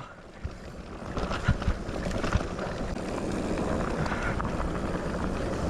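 Intense MX Pro electric mountain bike rolling over a rutted dirt trail: tyre noise and frame rattle, with sharp knocks as it hits bumps, and wind on the microphone. It grows louder over the first few seconds as the bike picks up speed, then holds steady.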